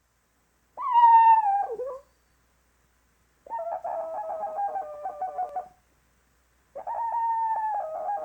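Puppy whining: three high, wavering whines of one to two seconds each, the first dropping in pitch at its end.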